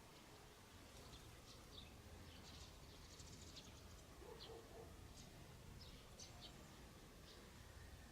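Near silence with faint, scattered high bird chirps and a low steady hum underneath.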